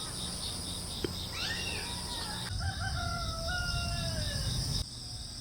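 Rooster crowing: a shorter call about a second and a half in, then one long drawn-out cock-a-doodle-doo.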